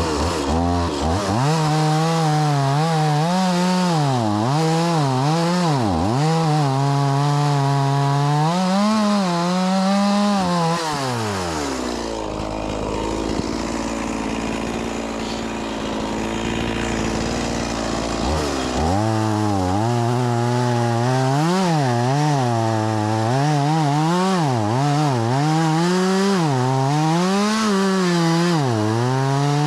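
Stihl MS 180 two-stroke chainsaw at high revs cutting through firewood logs, its pitch wavering as it loads in the wood. About twelve seconds in it drops to a low idle for roughly six seconds, then revs up and goes back into the cut.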